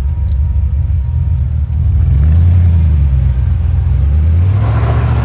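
Off-road pickup truck's engine running under load on a trail, a low rumble whose revs rise and fall as the throttle is worked. A short rush of scraping, hissing noise joins it near the end.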